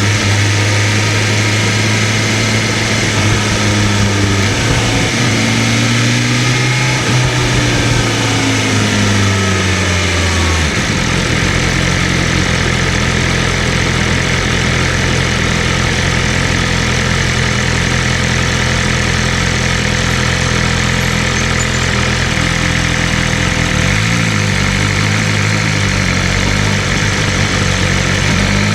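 BMW M1000RR superbike's inline-four engine running at a steady note, then dropping suddenly to a lower steady note about ten seconds in. Near the end the pitch wavers up and down briefly, then starts to rise as the bike pulls away.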